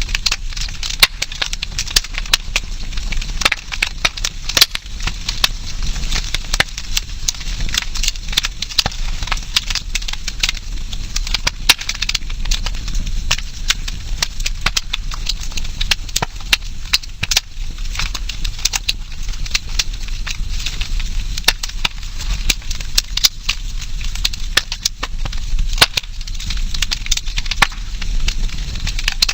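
Wood campfire burning, crackling with frequent irregular sharp pops and snaps over a steady hiss.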